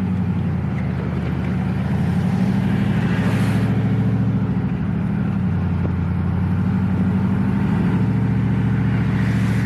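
Chevy Silverado's LS V8 and its aftermarket exhaust droning steadily while the truck drives. No whine comes from the freshly installed Yukon 3.73 ring and pinion, a sign the gear set is meshing quietly.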